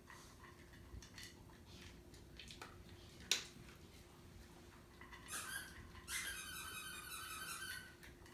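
Mostly quiet room with a faint steady hum and a sharp click about three seconds in, then a puppy whining in a high, pulsing tone for about two seconds near the end.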